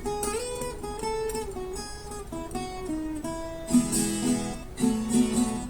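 Acoustic guitar instrumental interlude between sung verses: a picked single-note melody line, then strummed chords from about two-thirds of the way through.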